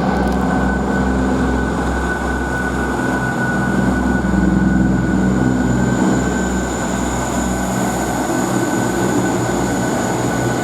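Diesel train running steadily: a low engine drone with a thin, steady high whine over it.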